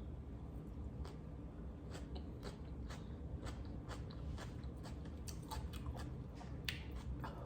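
Scattered light clicks and taps of objects being handled, several a second, over a low steady hum.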